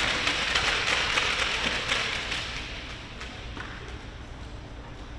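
Spectators clapping, a dense patter that dies away about halfway through, leaving a low hall background.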